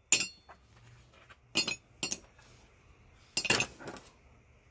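Small metal scrap parts clinking and knocking as they are handled and set down: five or six irregular sharp clinks.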